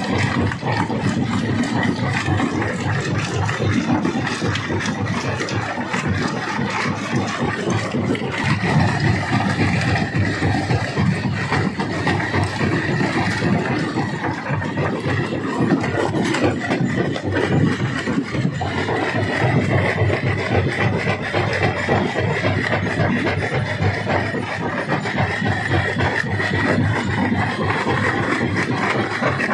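Large rock crusher machine running and crushing stone: a loud, steady, grinding mechanical din with a faint high whine throughout.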